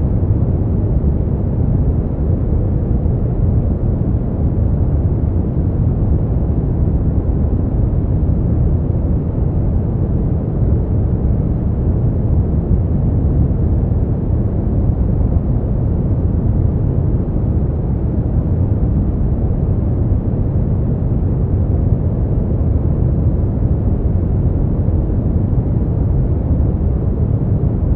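Steady generated white noise for sleep, deep and even, mostly low rumble with little hiss in the highs, unchanging throughout.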